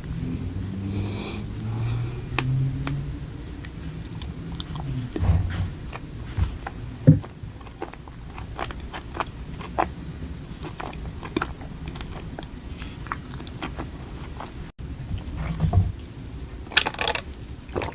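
Close-up chewing and biting of food, with many small sharp mouth clicks scattered through, a low hum in the first few seconds, and a brief noisy burst near the end.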